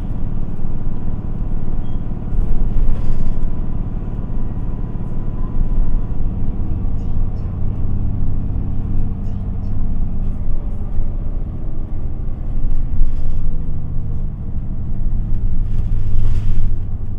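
Inside the cabin of an Isuzu Erga city bus (QPG-LV234L3) on the move: its diesel engine drones under the road rumble, with the engine note shifting as it pulls and eases off. Brief hisses come about three seconds in and again near the end.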